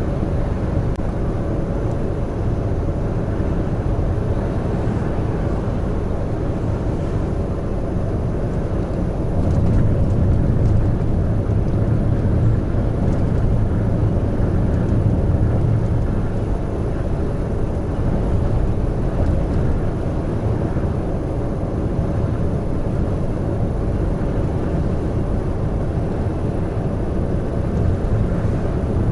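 Heavy truck cruising on an expressway: a steady low rumble of engine and tyre noise, swelling a little about ten seconds in.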